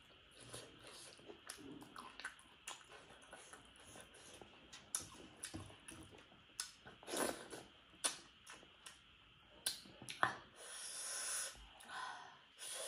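A person eating close to the microphone: irregular wet chewing, lip smacks and mouth clicks, with a longer wet slurping sound about ten seconds in.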